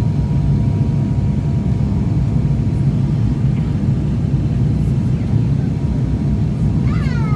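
Steady, loud low drone of an aircraft's engines and airframe heard from inside the cabin in flight. Near the end a brief pitched sound falls in pitch.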